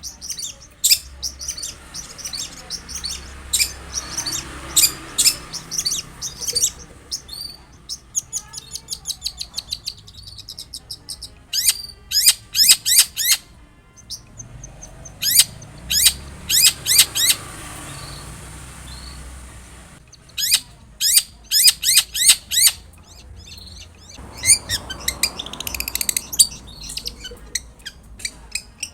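Long-tailed shrike (cendet) singing hard, in bouts of rapid, high, falling notes and chatter a few seconds long with short pauses between.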